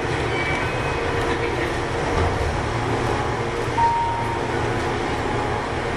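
Running sound of a Keihan 13000 series electric train heard on board: a steady rumble of wheels and motors as it nears its stop.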